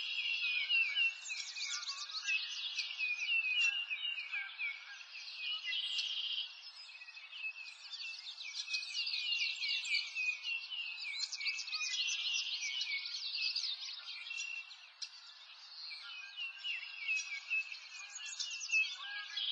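Dense chorus of songbirds chirping and trilling, many high calls overlapping, easing off briefly about fifteen seconds in.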